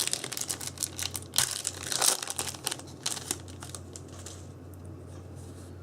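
Foil trading-card booster-pack wrapper crinkling as it is handled, in dense sharp crackles that die down after about three and a half seconds.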